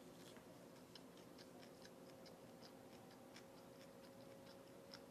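Near silence with faint, irregular clicks, several a second, from someone chewing food, over a faint steady hum.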